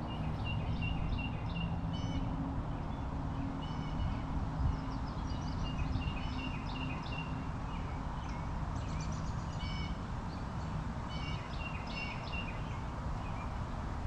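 Birds calling in many short, repeated notes throughout, over a steady low rushing background.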